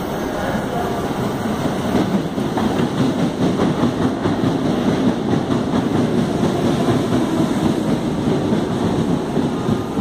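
CPTM Série 2000 electric multiple unit (CAF/Alstom/ADTranz) rolling past close by: a steady rumble of steel wheels on rail with repeated clacks, growing louder about two seconds in as the train comes beneath.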